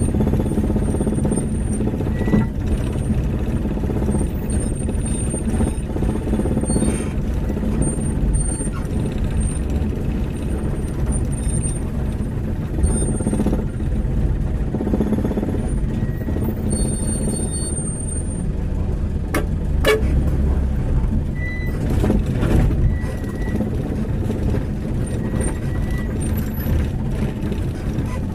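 1995 Mitsubishi Canter single-axle truck's engine running under load as the laden truck is driven along a rough track, with short high-pitched squeaks coming and going and a few sharp knocks about two-thirds of the way through.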